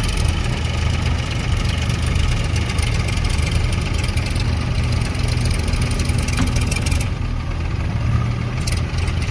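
Heavy diesel engine running steadily with a low hum. The higher rattle and hiss fall away about seven seconds in.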